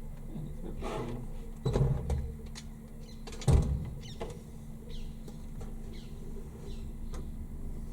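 A few heavy thumps and knocks from a tumble dryer being handled, the loudest about three and a half seconds in, over a steady low hum.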